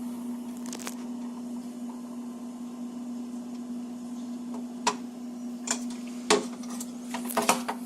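Haier AFD634CX refrigerator air damper mechanism under a steady hum, clicking and rattling irregularly and more often near the end as it tries to open but cannot: the damper is faulty.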